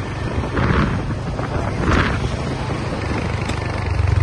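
Wind buffeting the microphone and road noise as a homemade electric sports car drives, a steady low rumble with two brief louder swells.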